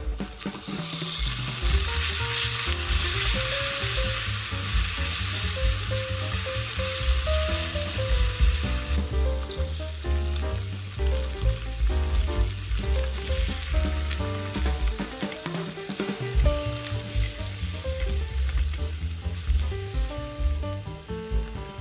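Food sizzling in oil in a nonstick frying pan: soy sauce hitting hot scallion oil and then eggs frying as a silicone spatula stirs them. The sizzle is loudest for the first nine seconds or so and then quieter. Background music with a steady bass plays throughout.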